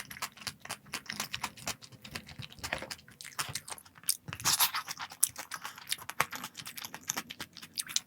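A person eating close to the microphone: chewing with quick, irregular small clicks and crunches, with a louder crunchy patch about four and a half seconds in.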